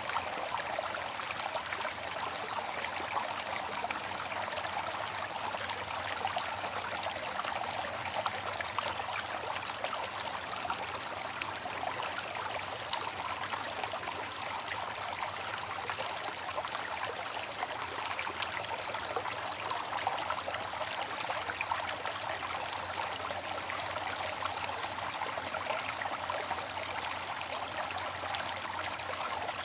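Water fountain running, with water splashing and trickling in a steady, unbroken stream.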